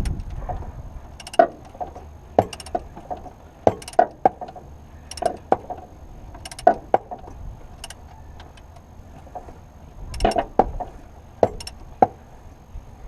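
Sharp metallic clicks, singly or in quick pairs about every second or so, from a wrench working a cross-threaded alternator mounting bolt in a stroke at a time.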